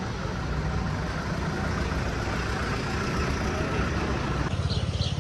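A motor vehicle's engine running close by, a steady low rumble. A few short bird chirps come in near the end.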